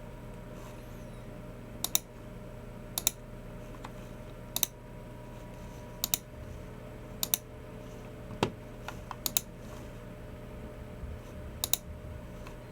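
Sparse clicks from a Logitech MX Keys Mini keyboard and a Logitech G304 mouse, about one every second or so. Each is a quick double click of press and release. A faint steady hum runs underneath.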